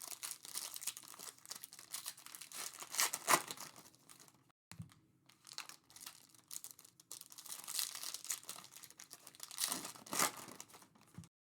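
Panini Prizm trading card pack wrappers crinkling and tearing as packs are opened by hand, in irregular rustling flurries, loudest about three seconds in and again near the end.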